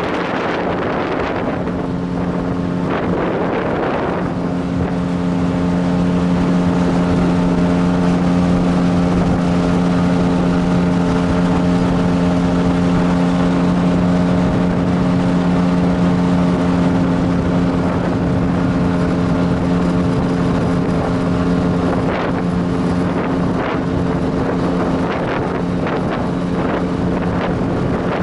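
Motorboat engine running at a steady speed, a constant pitched drone, with gusts of wind noise on the microphone that are stronger at the start and over the last few seconds.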